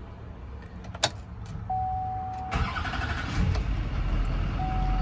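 6.6 L Duramax turbo diesel V8 cold start: a click about a second in, then a steady electronic chime tone, then the engine cranks and fires about two and a half seconds in and settles into a steady low idle. The chime tone sounds again near the end.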